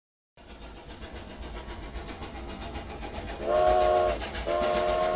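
Steam locomotive chugging in a quick, even rhythm, then its multi-note whistle blowing twice, first about three and a half seconds in and again a moment later.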